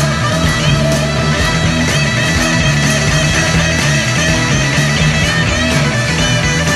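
Live psychedelic rock band playing an instrumental passage: electric guitar lead with bending notes over bass and drums.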